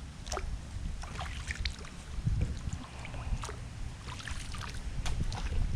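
Water lapping and trickling around a kayak hull, with small scattered ticks and splashes over a low wind rumble on the microphone.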